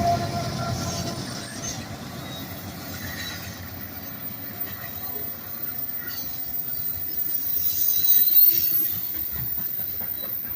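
Freight train of tank cars rolling past, steel wheels rumbling and clicking on the rails with faint wheel squeal; the rolling noise swells about eight seconds in.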